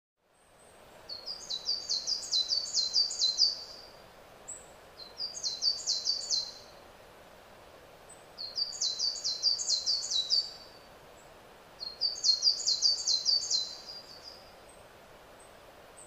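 A songbird singing four short phrases a couple of seconds apart, each a quick run of high, down-slurred notes, with a few faint single high notes in between, over a steady background hiss.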